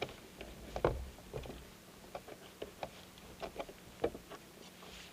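Scattered light knocks and clicks on a Hobie fishing kayak, a dozen or so at irregular intervals, with the loudest, duller thump about a second in.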